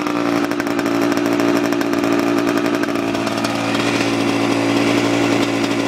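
Husqvarna WRE 125 two-stroke single-cylinder engine running steadily at a constant speed. Since a general overhaul it stutters and will not run up to high revs, which the owner suspects may be the exhaust valve control.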